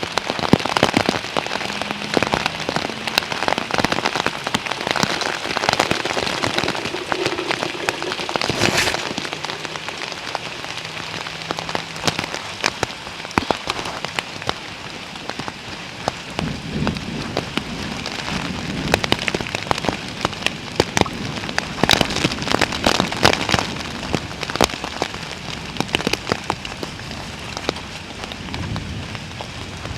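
Heavy rain falling steadily, with many individual drops striking in sharp taps.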